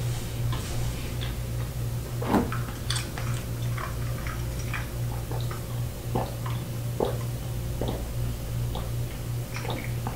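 A person chewing food close to the microphone, with scattered short mouth clicks and smacks, over a steady low hum.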